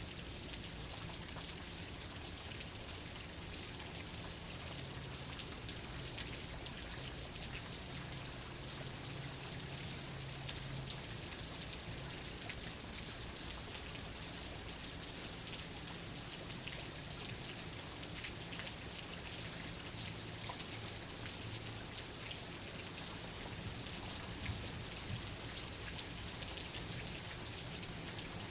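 Steady rain falling, a dense patter of drops on a surface with a faint low rumble underneath.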